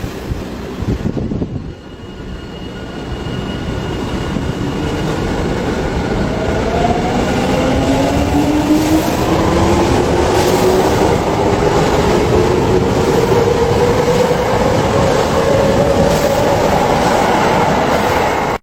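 Japanese electric train pulling away from the station: the traction motors whine, rising steadily in pitch as it speeds up, over a growing rumble with wheels clicking over the rail joints.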